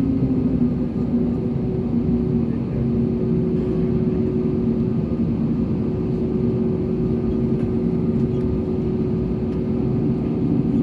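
Airbus A320neo's geared-turbofan engines running steadily at low power, heard from inside the passenger cabin: an even rushing noise with a steady low hum, settling slightly lower in pitch in the first couple of seconds.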